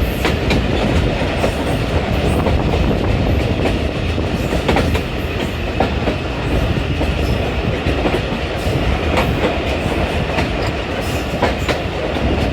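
Moving passenger train running steadily on the line: a continuous low rumble with irregular clicks of the wheels over the rail joints.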